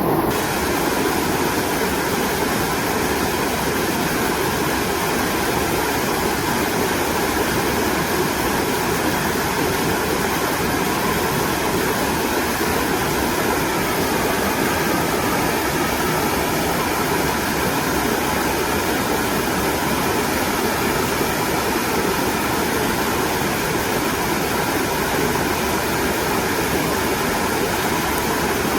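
Mountain valley stream water flowing, a steady, even rush.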